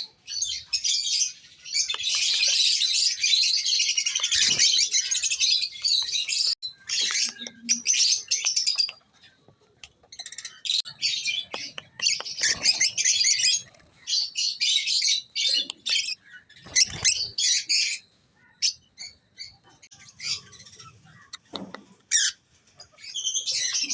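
A group of young African lovebirds chattering and chirping, high-pitched and busy, in long stretches broken by brief pauses.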